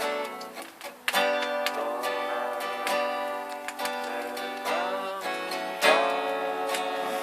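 Acoustic guitar strummed and picked in an instrumental passage, chords ringing; the playing dips briefly about a second in, then comes back with a hard strum.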